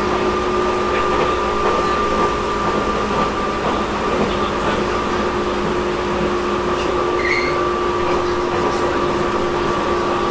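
Interior running sound of a Tobu 10000-series electric commuter car, heard from above the main controller: steady wheel-and-rail noise with several steady electrical hums, and the air conditioning running.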